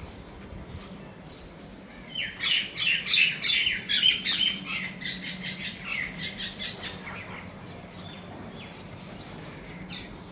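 Birds chirping: a quick, dense run of short chirps starts about two seconds in and fades away over the next five seconds, over a steady low hum.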